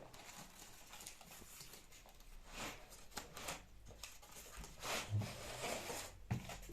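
Faint rustling with scattered light knocks and clicks, as of household items and their packaging being handled and set down; the knocks are busiest in the second half.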